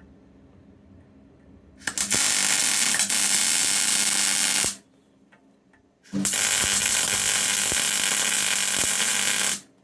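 MIG welder arc crackling in two bursts of about three seconds each, tack-welding steel hook plates onto a digger bucket. Each burst starts and stops abruptly.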